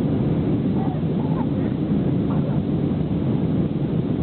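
Steady jet engine and airflow noise heard inside an Airbus A319's passenger cabin under takeoff or climb power, a low, even rumble.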